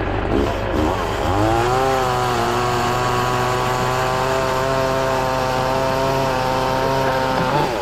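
Chainsaw revved up to high speed about a second in, held steady for about six seconds, then let back down near the end.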